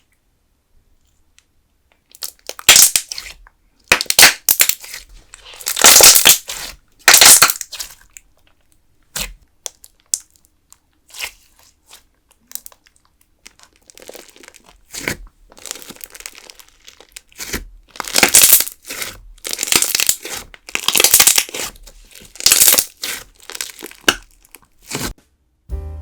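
Putty-style clear slime being squeezed and pressed by hand. It comes as a run of irregular, loud bursts, starting about two seconds in.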